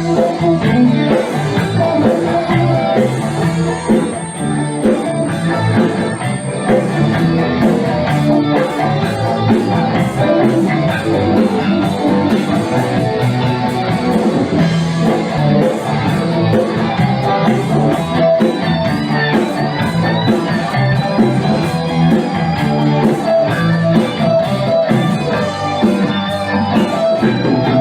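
Rock band playing an instrumental passage of a song: electric guitar over a steady drum beat.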